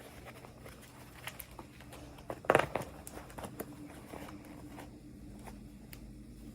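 Hands handling small plastic toy packaging: scattered light clicks and crinkles, with one louder rustle about two and a half seconds in.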